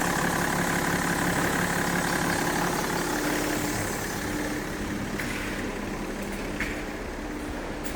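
BMW X5 E53 3.0d's M57 three-litre inline-six diesel engine idling steadily on a running test, getting somewhat quieter about four seconds in.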